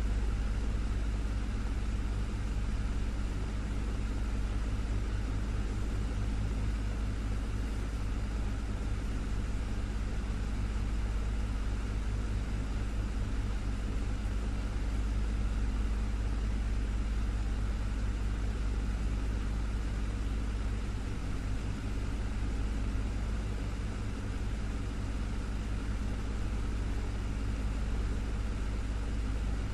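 Desktop fan running steadily: a constant motor hum with a few steady low tones under an even rush of air.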